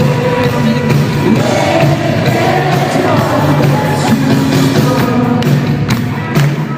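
Live band playing a worship song with singing, drums and bass, a crowd audible in the hall.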